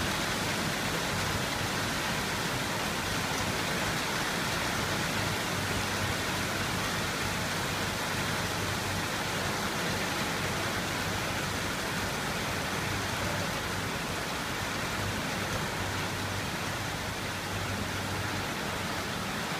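Rain falling steadily, a continuous even hiss with no thunder.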